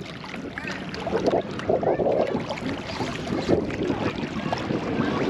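Water splashing and rushing against a small boat under way, with a faint steady motor hum in the first half.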